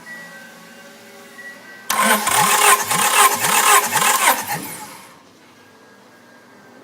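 Honda F23A four-cylinder engine turned over by its starter in a loud spell of about three seconds, with an uneven pulse roughly twice a second. It then stops without running on.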